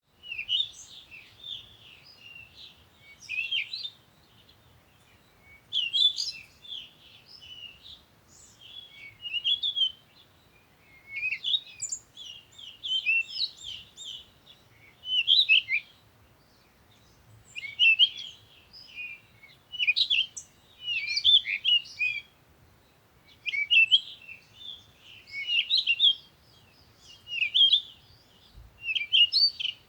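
Birds chirping and twittering in quick high bursts, a burst every couple of seconds with short pauses between.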